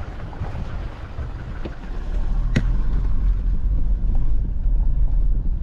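A car driving, its low rumble getting louder about two seconds in, with a single sharp knock shortly after.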